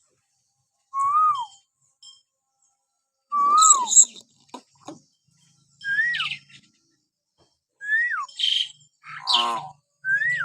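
Hill myna whistling: five short whistles about two seconds apart, each rising and then sliding down, the later ones pitched higher, with harsh, rasping calls mixed in after the third and fourth.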